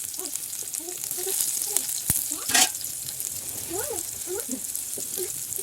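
Food sizzling and frying in a hot pan, with a sharp click about two seconds in and a louder scraping clatter just after.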